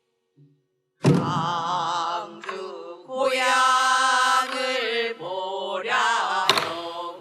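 Traditional Korean pansori singing: a solo voice with wide vibrato and long held, bending notes, starting about a second in. A sharp strike comes at the onset, and another about five and a half seconds later.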